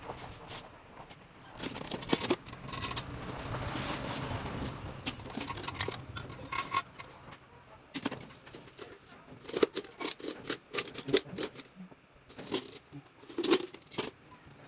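Metal tools and small engine parts clinking and tapping against each other in irregular short clicks, with a stretch of rushing noise a few seconds in.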